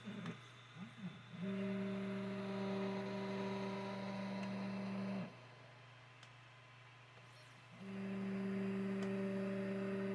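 3D printer stepper motor running at a constant speed, giving a steady buzzing whine in two runs of about four seconds with a short pause between, over a constant low electrical hum.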